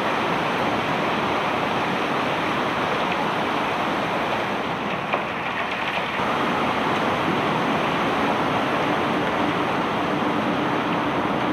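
Cobblestones being unloaded from a barge: a steady rushing noise under a faint engine hum, with a single short knock about five seconds in.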